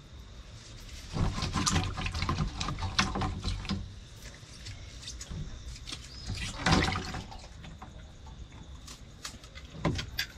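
Hands mixing seasoned raw chicken with crushed garlic in a bowl: irregular wet squelches and clicks, busiest a second or so in and again briefly around the middle.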